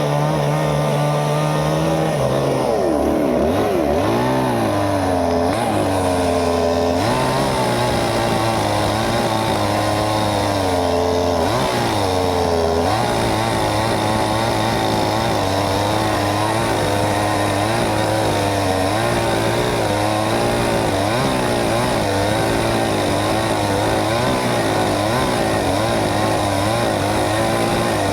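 Two-stroke chainsaw running at high revs through a cut, its engine pitch repeatedly dipping and recovering as the chain bites into the wood.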